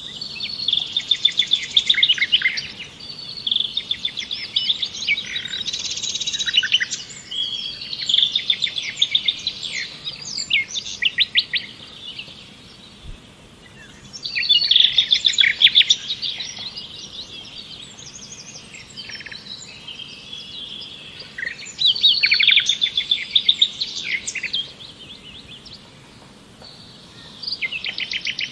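A songbird singing: repeated phrases of rapid high chirps and trills, each a few seconds long, with short pauses between them.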